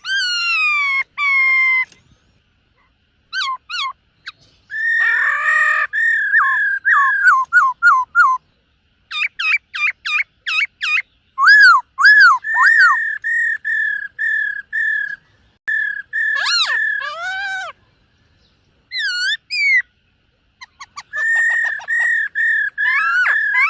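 Black-throated laughingthrush singing loudly at close range: clear whistled phrases made of runs of quick repeated notes and sweeping slurs, broken by short pauses.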